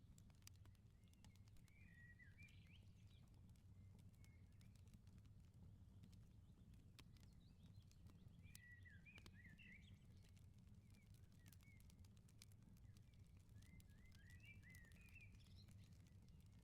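Faint wood fire crackling with scattered sharp pops over a steady low rumble. A small bird chirps in three short bursts: about two seconds in, around the middle, and near the end.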